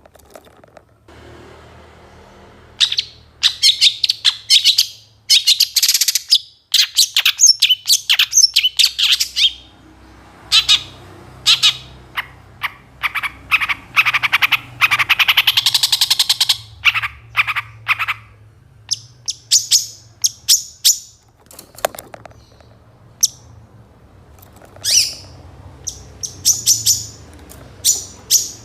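Long-tailed shrike (pentet, cendet) singing loudly, starting about three seconds in: rapid runs of sharp high chirps and trills broken by short pauses, a varied song filled with imitated phrases of other birds.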